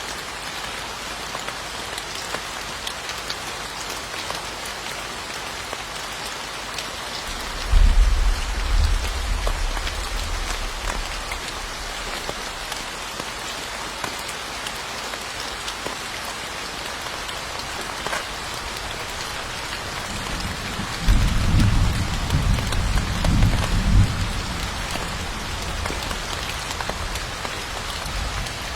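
Steady rain falling on surfaces, an even hiss throughout. Two low rumbles of thunder roll in, one about eight seconds in and another about twenty-one seconds in, each lasting a few seconds.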